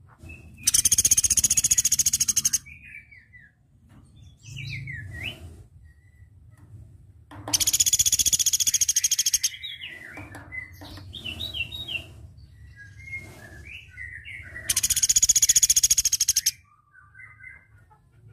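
Platuk beras (velvet-fronted nuthatch) calling: three loud, rapid, high-pitched trills of about two seconds each, spaced several seconds apart, with softer chirps and short down-slurred notes between them.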